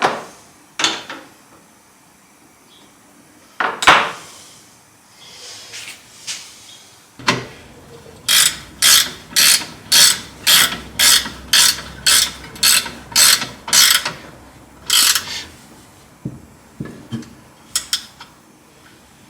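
A hand tool worked in a run of about a dozen quick, even strokes, roughly two a second, with a few separate clicks and knocks before and after.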